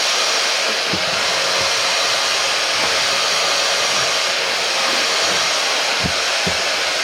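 Hoover Powerdash Go Pet carpet spot cleaner running, its suction motor making a steady, loud rushing whoosh as it cleans car carpet. A few short low bumps come through, one about a second in and two near the end.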